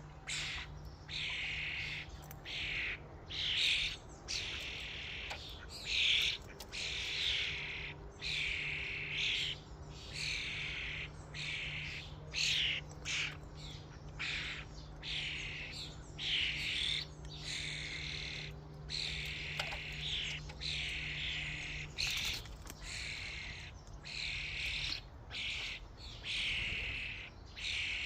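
Common starlings calling, a string of loud, repeated calls coming about one or two a second with short gaps between them.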